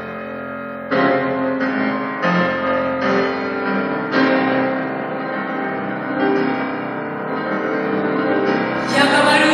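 Background piano music: slow notes and chords, one struck about every second, growing fuller and louder near the end.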